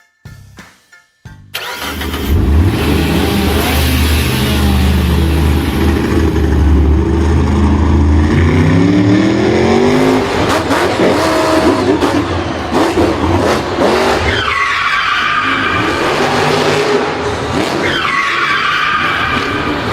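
Vehicle engines running and revving, with tyres skidding and squealing. After a short quiet start the sound comes in loud, with a steady low drone and then several rising and falling revs.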